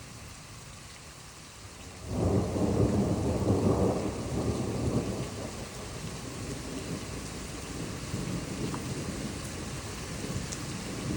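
Steady rain, then about two seconds in a sudden loud peal of thunder that rumbles and slowly fades over the next few seconds.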